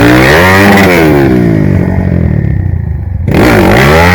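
Trail motorcycle engine revving hard, its pitch climbing and dropping with the throttle, in two loud spells: the second begins about three seconds in.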